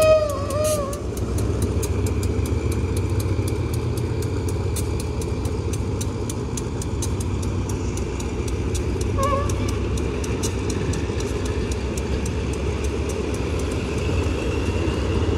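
A diesel train's horn blast ends about a second in, drooping in pitch as it stops, followed by the steady low rumble of the train. A brief faint horn toot comes about nine seconds in.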